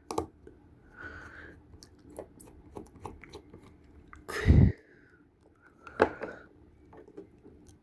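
Scattered small clicks and scratchy scraping of hand tools prying and cutting at a phone's broken screen and adhesive, with a louder thump about four and a half seconds in and a sharp click about six seconds in.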